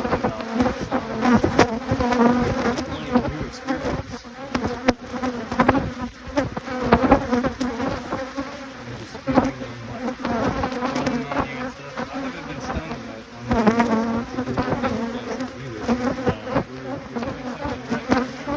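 Honeybees buzzing in an opened hive, a steady hum throughout, with frequent short clicks and knocks over it.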